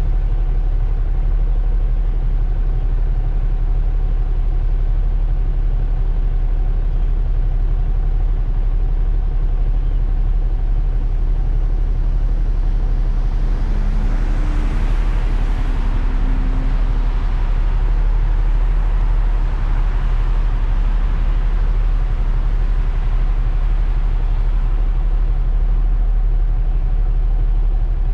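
Suzuki Burgman 400 scooter under way: steady road and wind rumble on the bike-mounted action camera, with the engine's hum underneath. A swell of hiss rises about halfway through and fades away, as with passing traffic.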